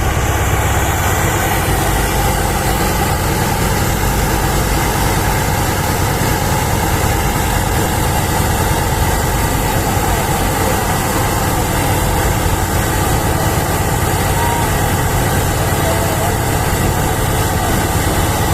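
Boat engine running steadily, a constant low rumble with a wide hiss of noise over it that holds without change.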